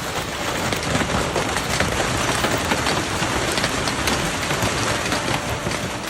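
Large hailstones pelting down, a dense, steady clatter of many small impacts.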